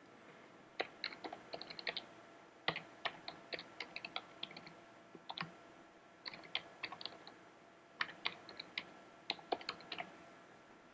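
Computer keyboard being typed on in several short, faint runs of key clicks, with brief pauses between them.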